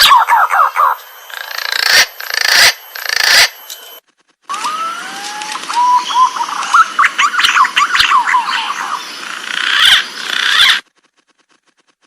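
Green pigeons (punai) calling: warbling, whistled notes with sliding and rising pitch, broken by sharp clicks in the first few seconds. The calls cut off abruptly twice, about four seconds in and near the end.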